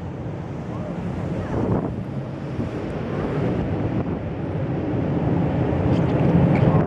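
Wind buffeting the microphone over the surf, growing steadily stronger to its loudest shortly before the end.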